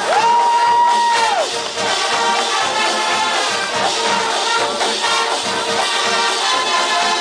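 Brass band music playing loudly. In the first second and a half one high note is held, sliding up into it and falling away at the end.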